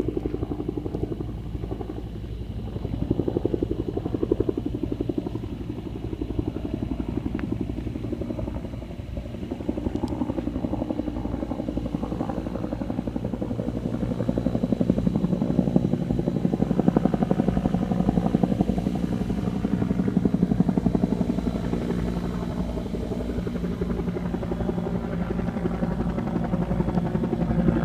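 Caterpillar 3406E inline-six diesel of a heavy dump truck idling with a steady, rapid pulsing; it grows louder about fifteen seconds in.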